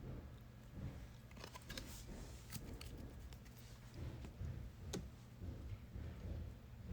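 Trading cards being handled and flipped through by hand: faint, scattered light clicks and rustles of card stock, with a low hum underneath.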